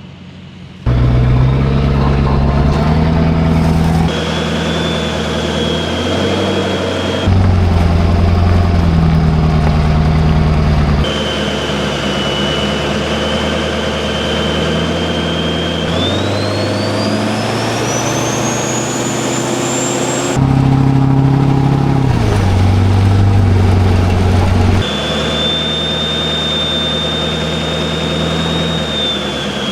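Chevrolet Duramax 6.6-litre turbodiesel V8 pickup pulling a heavy load, with a high, thin turbo whistle over the engine's low drone. About halfway through, the whistle climbs sharply in pitch as the turbo spools up. The sound changes abruptly every few seconds, with a hard cut between separate takes.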